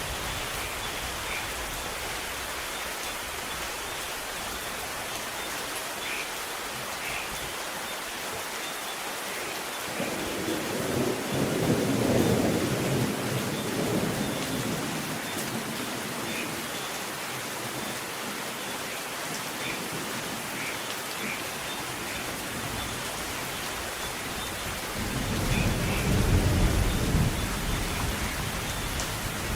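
Steady rain falling, with thunder rolling twice: one long rumble about a third of the way in and another near the end.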